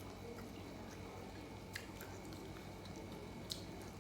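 Soft chewing of food, with a couple of small wet mouth clicks, over a steady low hum.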